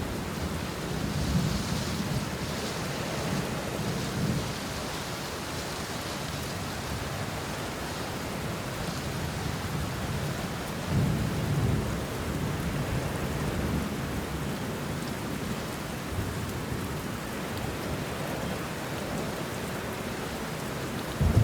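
Steady rain pattering on banana leaves and bushes, with low rolls of thunder swelling about a second in and again around eleven seconds in.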